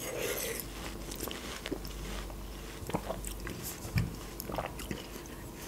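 Close-miked mouth sounds of someone chewing a mouthful of watermelon: irregular wet clicks and smacks, a few a little louder about three and four seconds in.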